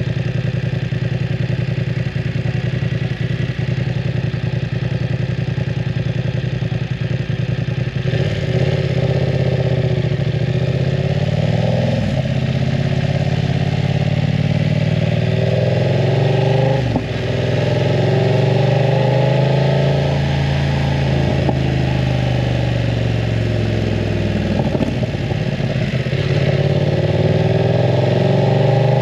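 BMW F900 R's parallel-twin engine through a full aftermarket exhaust, ridden. It runs at a steady note for the first several seconds, then the rider accelerates: the pitch rises and drops back several times as he shifts up through the gears.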